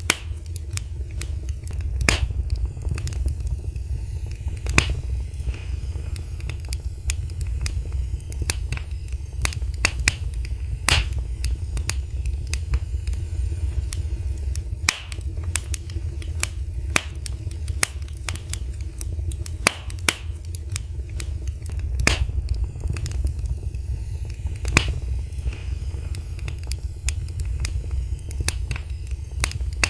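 Fireplace fire crackling: irregular sharp pops and snaps, some louder than others, over a steady low rumble.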